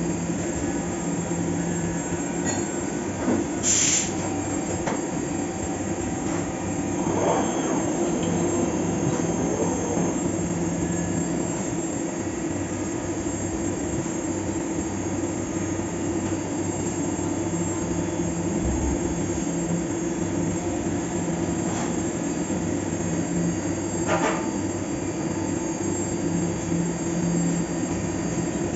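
A Fagima Jazz M 5-axis CNC milling machine running a machining cycle: a steady mechanical hum, with a short hiss about four seconds in and a few sharp clicks later on.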